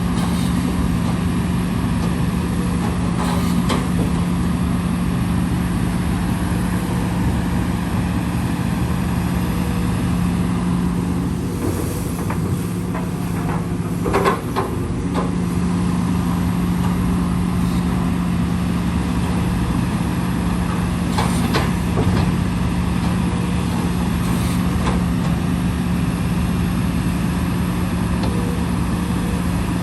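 Heavy earthmoving machine's diesel engine running steadily, its hum dipping for a few seconds midway, with a few short knocks, the loudest about 14 seconds in.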